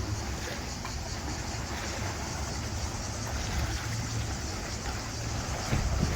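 Tour boat's engine running steadily: a constant low rumble under a rush of water.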